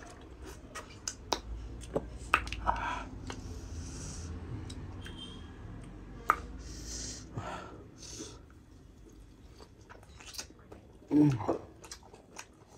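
A man chewing a mouthful of pork and rice with his mouth open, making many short wet clicks and smacks. A brief voice sound comes about eleven seconds in.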